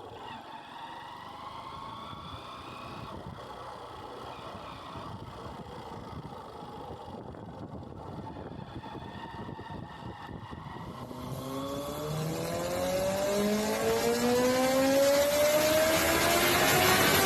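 Honda CBR motorcycle engine running at low, easing revs, then from about two-thirds of the way through accelerating, its pitch climbing steadily and the sound growing louder.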